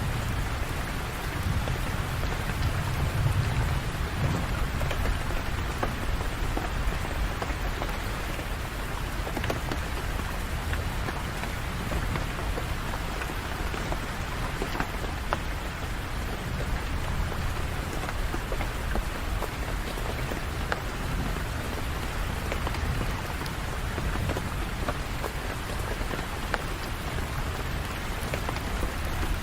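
Steady, heavy rain falling, a dense patter of drops, with a low rumble about three seconds in.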